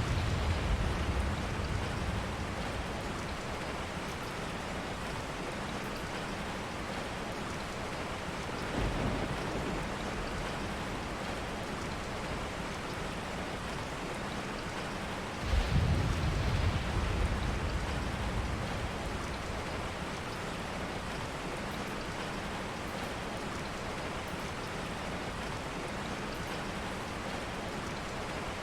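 Steady rain falling, with low rolls of distant thunder: one right at the start, a weaker one about nine seconds in, and a stronger one about sixteen seconds in that fades over a few seconds.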